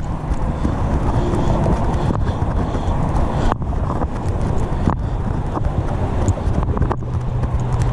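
Wind buffeting the microphone during a ride, a steady low rumble with scattered clicks and a few brief dropouts. A low steady hum comes in near the end.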